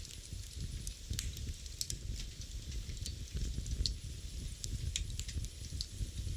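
Wood fire burning in a fireplace: a steady low rumble of flames with scattered sharp pops and crackles.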